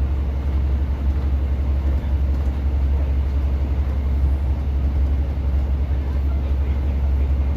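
Steady low drone of a Class 150 diesel multiple unit, heard from inside the carriage: a constant deep engine hum under an even rumbling running noise.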